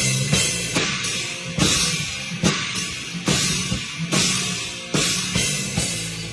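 Rock band playing: a drum kit crashes a cymbal together with the bass drum about every 0.8 s over bass and guitar. Near the end the drum hits stop and a held chord rings on.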